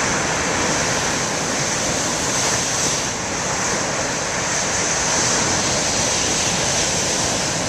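Large storm waves breaking on a rocky shore: a steady rush of surf mixed with wind noise on the microphone.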